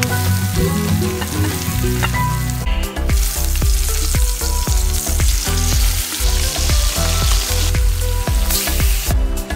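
Trout fillet frying in hot oil in a cast-iron skillet: a loud, steady sizzle, strongest from about three seconds in until near the end, over background music with a steady low beat.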